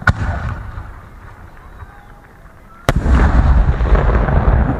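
Fireworks going off: a sharp bang at the start, then about three seconds in a louder bang followed by a continuous rumble and crackle of further bursts.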